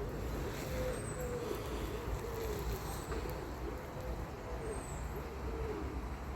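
A pigeon cooing in a continuous run of low, wavering notes, over a steady low rumble of distant traffic. A faint, short, high falling peep from a small bird comes every second or two.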